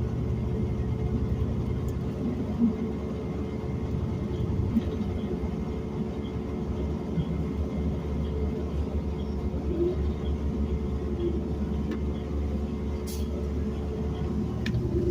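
City transit bus running along the road: a steady engine drone and low road rumble, with a constant hum and a few faint rattles.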